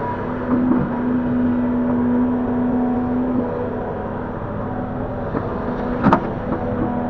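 Link-Belt 145X3E hydraulic excavator running steadily, its engine note strengthening for about three seconds starting half a second in, as under hydraulic load. A single sharp metallic clank sounds about six seconds in.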